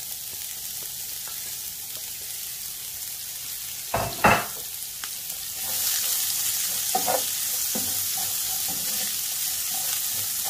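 Julienned carrot sticks sizzling in hot oil in a non-stick frying pan while being stirred with a wooden spoon. There are two sharp knocks about four seconds in, and the sizzle grows louder from about six seconds in.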